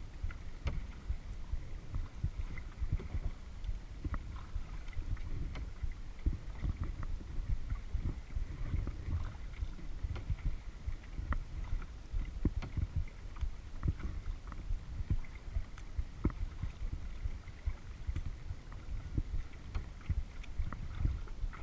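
Kayak out on a lake: water lapping and splashing against the hull and paddle, with many small irregular drips and knocks over a low, uneven rumble.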